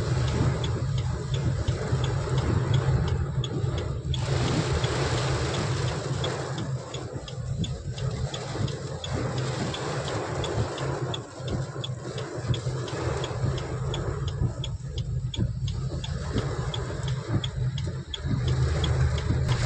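Heavy rain falling in a steady downpour, with a low rumble under it and a regular light ticking, about three ticks a second.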